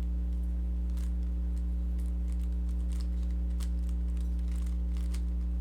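Rubik's Cube layers being turned by hand, giving faint, irregular plastic clicks, over a steady low hum.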